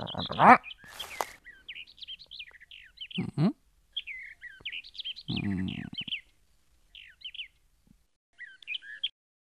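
Birds chirping repeatedly in short, sliding calls. A rising sweep and a brief hiss come near the start, and a low, rough sound lasting under a second comes just past the middle.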